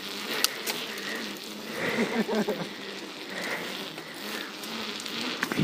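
Bicycle riding over rough ground: a crackling patter of tyres and rattling parts, with a few sharp clicks.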